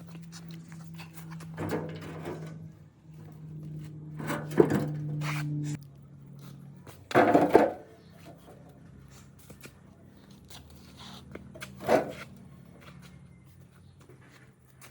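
Wood being handled and worked: irregular knocks and scraping noises, the loudest a cluster of knocks a little past the middle. A steady low machine hum runs underneath for the first six seconds, then stops.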